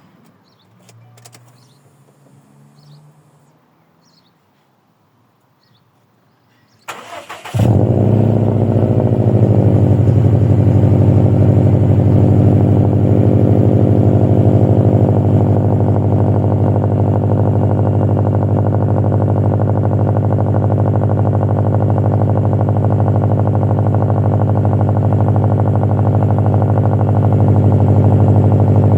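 2019 Subaru WRX STI's turbocharged 2.5-litre flat-four, breathing through an Invidia R400 cat-back exhaust with the stock downpipe, cold-started: about seven seconds in, the starter cranks briefly, the engine catches, and it settles into a steady, loud cold idle.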